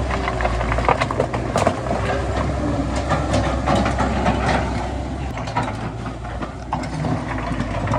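Heavy diesel construction machinery running with a steady low engine drone, overlaid with frequent knocks and clattering. The drone eases about five seconds in.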